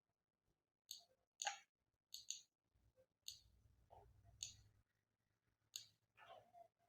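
Faint, irregular clicks of a computer mouse, about eight of them, some in quick pairs.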